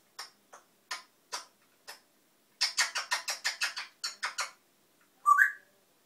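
Pet African parrot making a few sharp clicks, then a quick run of about a dozen clicking pulses. Near the end comes a short, loud, rising whistle.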